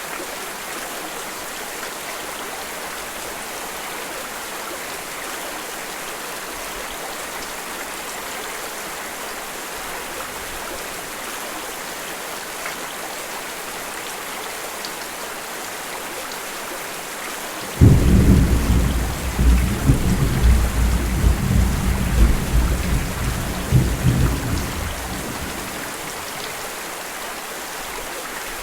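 Steady rain, with a sudden clap of thunder about two-thirds of the way through that rumbles on low for several seconds and fades away.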